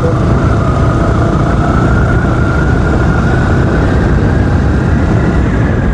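Motorcycle running steadily under a heavy, even low rumble, with a thin whine that rises slowly in pitch.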